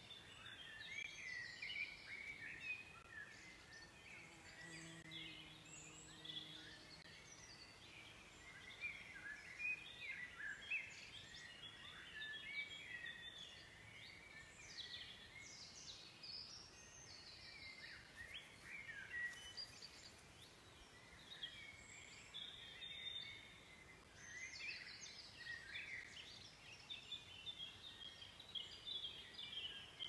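Faint birdsong: several birds singing short chirping, warbling phrases that overlap and come and go.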